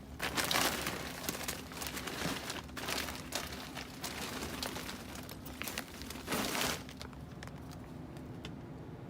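Crinkling and rustling of duct insulation material being handled, in irregular bursts. The loudest come just after the start and about six seconds in, and the sound dies down about seven seconds in.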